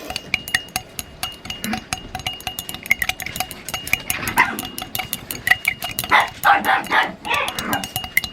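Small dogs barking, a short cluster of barks about six to seven seconds in, over a run of faint rapid clicks.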